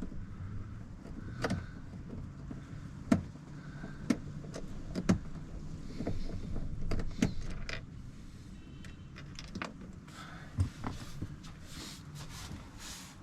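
Scattered clicks and knocks of a Torx driver and screws against the plastic door trim panel as its retaining screws are taken out, over a low steady hum.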